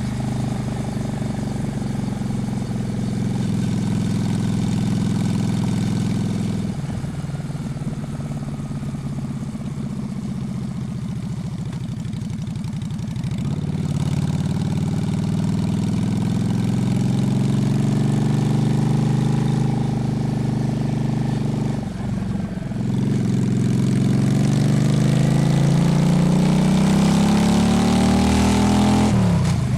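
Honda Shadow's V-twin engine under way. The revs fall slowly, then climb. There are sudden drops like gear changes about a quarter of the way in and about three quarters in. A long rise in pitch follows, ending in another sharp drop at the very end.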